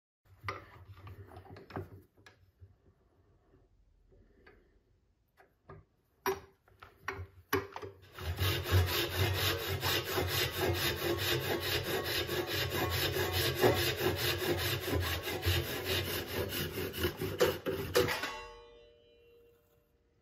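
Something rubbed against a wooden workpiece spinning on a wood lathe. After a few short, scattered rubs and knocks, a steady rasping rub runs for about ten seconds over a low motor hum, then stops near the end.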